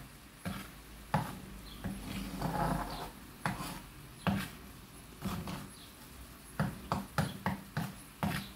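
Irregular light clicks and knocks, coming closer together in the last two seconds.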